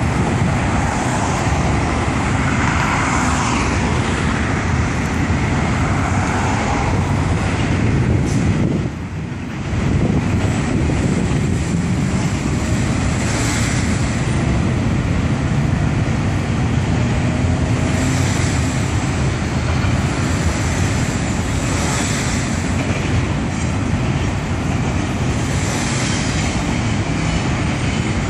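Union Pacific double-stack intermodal freight train rolling steadily across a bridge, a continuous rumble of wheels on rails mixed with road traffic below. The noise drops briefly about nine seconds in.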